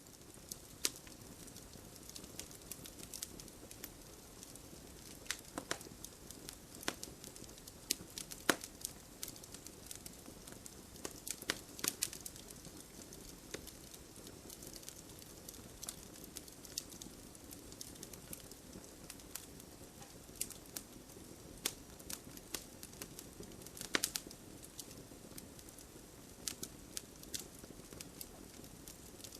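Campfire burning: the wood crackles with many irregular sharp pops over a low, steady rush of flame. A few pops, about a third of the way in, around the middle and again after about two-thirds, are louder than the rest.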